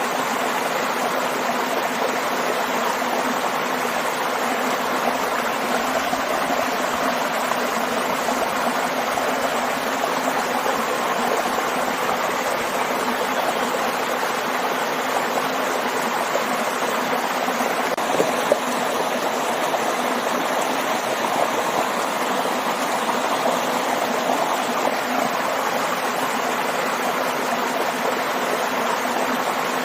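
Waterfall and stream water rushing and splashing in a steady, continuous wash.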